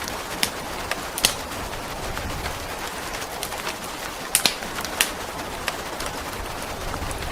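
Steady rain with a wood fire crackling, giving a few sharp pops, the loudest about a second in and twice more near the middle. A faint low rumble swells and fades underneath.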